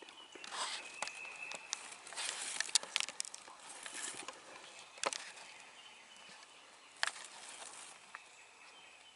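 Irregular rustling and crackling with a few sharp snaps, busiest in the first half, and a faint thin steady high tone now and then.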